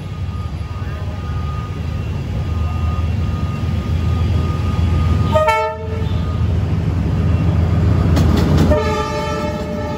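Passing train with the deep rumble of its D19E diesel-electric locomotive, growing louder. The locomotive horn sounds a short blast about five and a half seconds in, then a longer one starting near the end.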